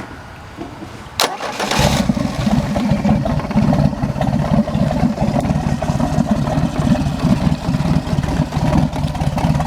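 A 3.0 Mercruiser four-cylinder stern drive engine starting. The starter clicks in about a second in, it cranks briefly, and the engine catches about two seconds in, then runs steadily. The owner says it runs smoothly without a single tick.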